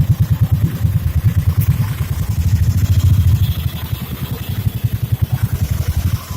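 Steady, rapidly pulsing low rumble of a rickshaw ride in motion, heard from aboard.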